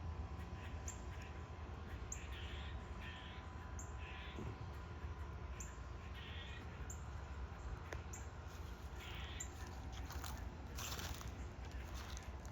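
Tree squirrels giving repeated alarm barks, short calls coming a little more than once a second. It is the warning squirrels give when they have spotted a possible predator.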